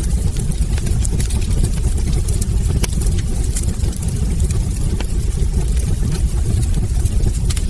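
Wood fire burning in a fireplace: a steady low rumble of the flames with sharp crackles and pops every second or so.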